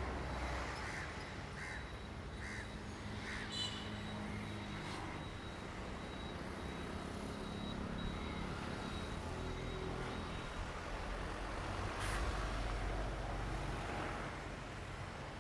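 Diesel train engine running with a steady low hum, with crows cawing a few times in the first few seconds.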